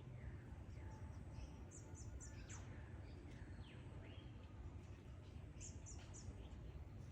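Faint bush ambience: birds calling, with two quick runs of high chirps and a few falling whistles between them, over a low steady rumble.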